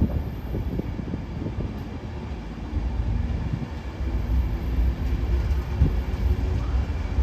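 Train moving through a railway station: a steady low rumble, with a run of short clicks in the first second or two.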